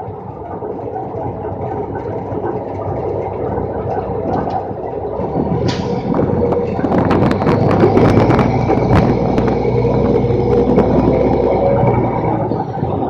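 Roll-off garbage truck's diesel engine running, working harder from about six seconds in as the hoist hydraulics take the load, with a high whine and repeated metal clanks and rattles.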